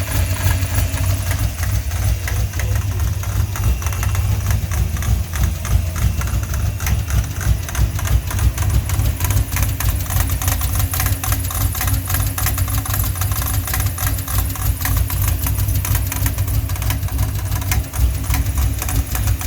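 Ford 302 (5.0) V8 idling steadily with a rapid, even clatter or knock from the belt idler pulley. The serpentine belt is a little too long after a smog pump delete: a 90-inch belt where about 89.5 is needed.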